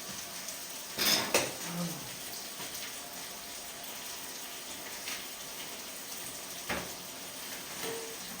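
Pork sizzling as it cooks: a steady hiss, with a few clinks of utensils or dishes, the loudest about a second in and another near seven seconds.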